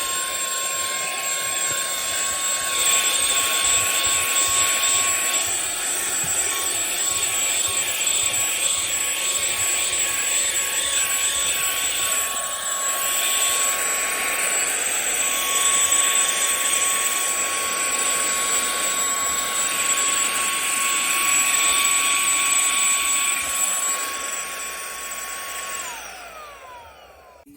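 Cordless handheld car vacuum with a brushless motor running with a steady high whine and rushing air, its loudness shifting a little as it works. Near the end it is switched off and the whine falls in pitch as the motor spins down.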